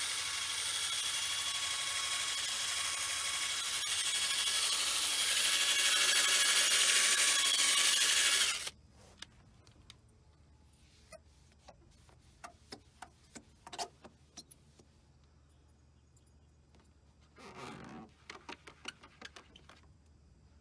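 Electric drill spinning a foam buffing pad on a plastic headlight lens, a steady whir with scraping noise that gets louder partway through, then cuts off suddenly about eight and a half seconds in. After that come faint scattered clicks and handling sounds.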